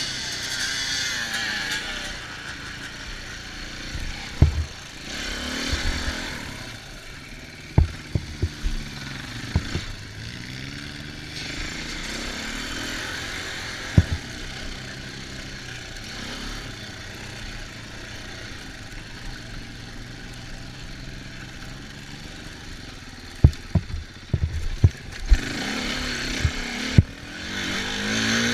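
An off-road vehicle's engine revving up and down while riding, with wind noise and scattered sharp knocks, several in a cluster near the end.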